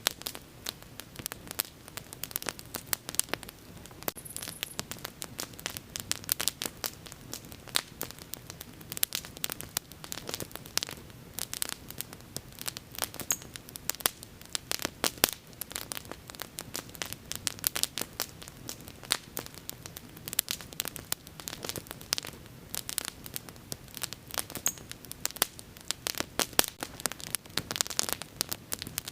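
Wood fire crackling and popping: a steady run of sharp, irregular pops and snaps over a low hiss of burning.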